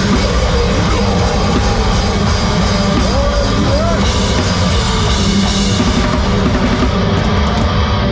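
Live heavy rock band playing loud, with distorted guitars, bass and a drum kit.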